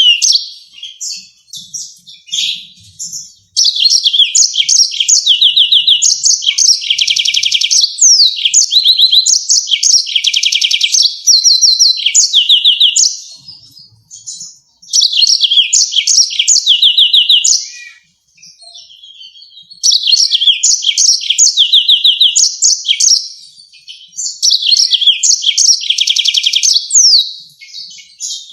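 Yellow-fronted canary singing loudly: long phrases of fast, high trills and rapidly repeated notes, broken by two short pauses in the second half.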